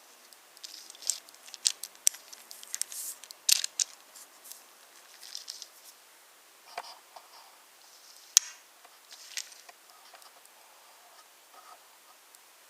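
Wooden toy trains and wooden track clicking and clacking: light, irregular taps and clicks, with the sharpest knocks about three and a half and eight and a half seconds in.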